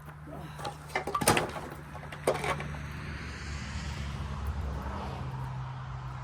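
An engine running steadily, dropping to a lower pitch about five seconds in, with a few sharp metal knocks and clanks in the first two and a half seconds.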